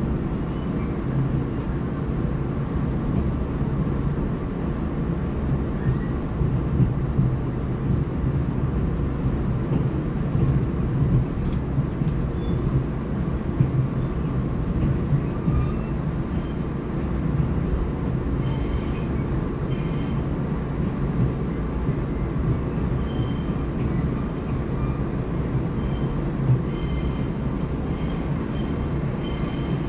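Cabin sound of a Taiwan Railway EMU3000 electric multiple unit rolling slowly over the tracks: a steady low rumble of wheels on rails. A few faint clicks, and brief faint high-pitched tones in the second half.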